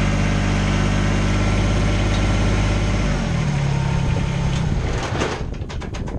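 Kubota BX25 sub-compact tractor's three-cylinder diesel engine running steadily; its note changes about three seconds in and dies away about five seconds in, followed by a few light clicks.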